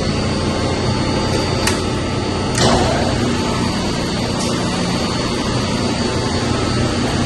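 Steady mechanical drone of pumps running in a chiller plant room, with a light click about one and a half seconds in and a short louder rush about two and a half seconds in, as the condenser water pump, its starter fitted with a new coil, comes on.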